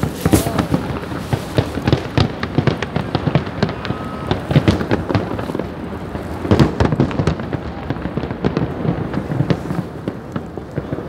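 Fireworks display: a continuous, rapid stream of bangs and crackling pops, several every second.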